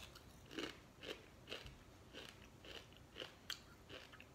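A person chewing a Doritos tortilla chip with the mouth closed: faint, short crunches about twice a second.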